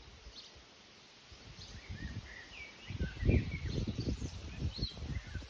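Small birds chirping and twittering in short, varied calls, over a low, uneven rumble that grows louder about halfway through.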